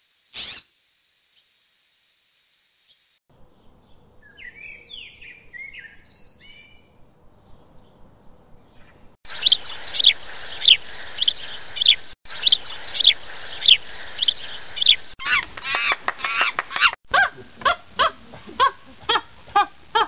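A string of different bird calls cut one after another. First a brief sharp sound, then soft chirping. Then a run of loud, sharp calls about two a second, and near the end a quicker series of lower repeated calls.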